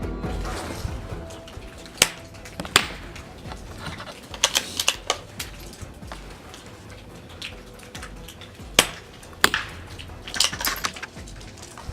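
Suppressed CZ 452 .22 LR rifle shots heard from downrange, sharp cracks with clusters of smaller clicks between them. There are two loud cracks in the first three seconds and two more around nine seconds in.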